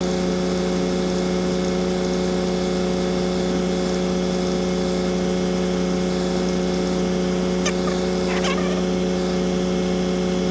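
Semi-truck engine running at a steady hum, heard from inside the cab, with a few faint chirps near the end.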